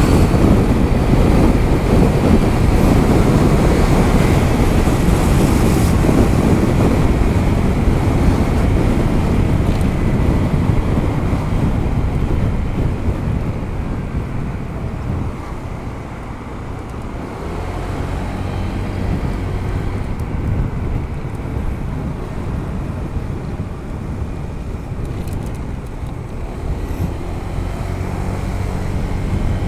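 Wind buffeting the microphone while riding a Honda ADV 160 scooter, with road noise and the scooter's single-cylinder engine underneath. The wind noise eases about halfway through, and the engine note comes through more clearly, rising in pitch in places.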